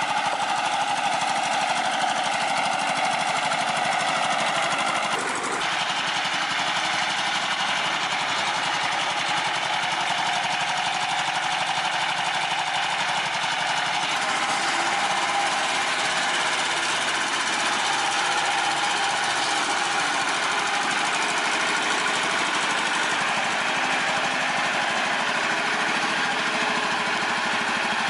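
A motor or power machine running steadily, with a brief change about five seconds in.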